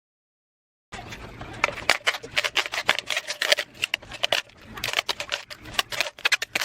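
Clear cellotape being pulled off its roll and wound tightly around an aluminium drink can, a fast, irregular crackling of sticky tape peeling and sticking. It starts after about a second of dead silence.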